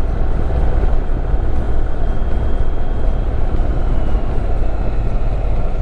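Wind rushing over the microphone with the motorcycle's engine and road noise while riding at a steady speed: a loud, even, low rumble.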